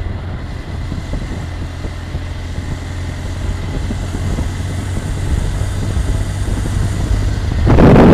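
BMW R 1200 GSA flat-twin motorcycle on the move, a steady low engine rumble under road and wind noise. Near the end, wind on the microphone suddenly becomes much louder.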